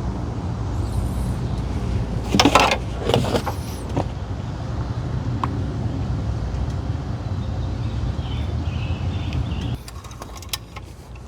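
A vehicle engine running with a steady low rumble, with a short metallic jangling about two to three seconds in; near the end the rumble stops suddenly, as when the engine is switched off.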